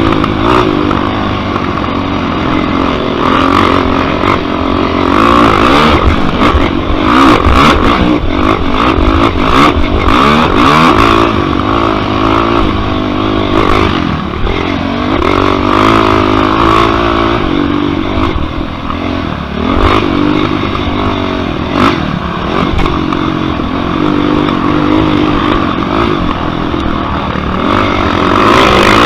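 Yamaha YFZ quad's single-cylinder four-stroke engine at race pace, its pitch rising and falling again and again as the throttle is opened and shut, with clatter and knocks from the machine over rough ground.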